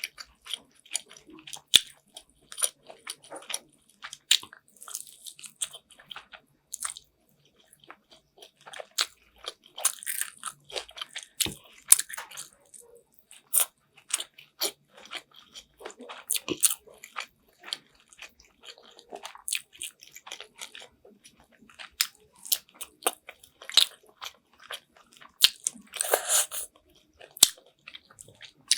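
Close-miked eating sounds of a person biting and chewing chicken afritada: wet smacking and irregular sharp clicks and crunches of mouth and food.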